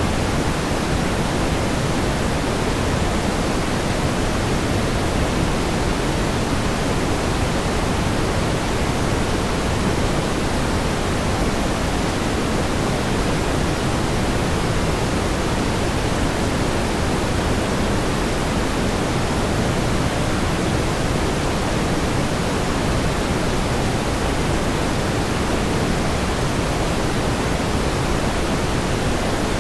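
Steady pink noise: an even, unchanging hiss weighted toward the lower pitches, with no events or rhythm.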